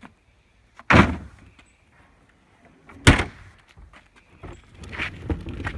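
Cut pieces of composite decking dropped into a trash can: two loud thuds about two seconds apart, then a rising jumble of quieter knocks near the end.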